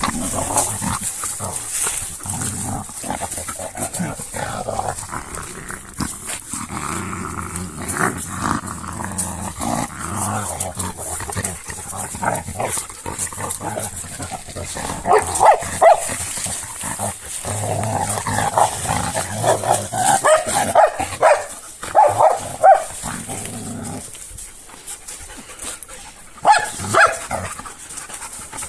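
Two Šarplaninac dogs play-fighting, growling continuously, with sharper, louder outbursts several times in the second half.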